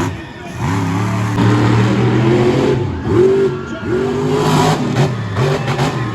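Monster truck engine revving hard again and again, its pitch climbing, holding and dropping several times.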